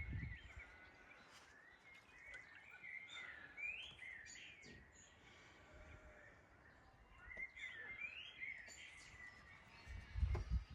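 Birds singing: scattered chirps and short rising and falling calls. A brief low rumble comes right at the start, and a louder one comes near the end.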